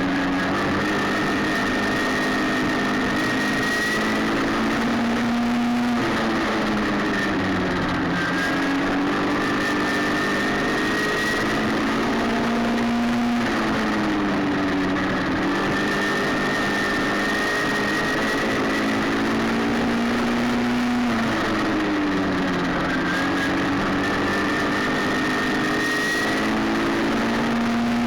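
Midget race car engine at racing speed on an oval. It climbs in pitch along each straight and drops sharply as the driver lifts for the turn, repeating about every seven and a half seconds.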